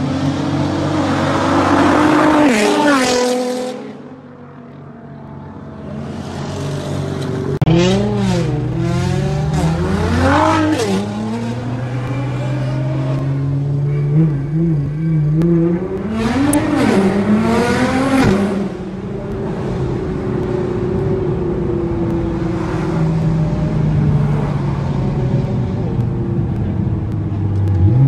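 Nissan GT-R R35 twin-turbo V6 engines accelerating and revving: the engine pitch climbs and then drops as a car goes by early on, then the engines are revved up and down repeatedly, in two bouts separated by steadier running, before settling into steady cruising.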